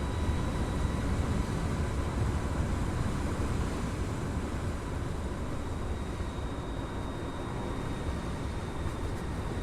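Wind and road rush on a helmet-mounted microphone from a Harley-Davidson LiveWire electric motorcycle cruising at speed, a steady rumble with a faint steady high whine over it.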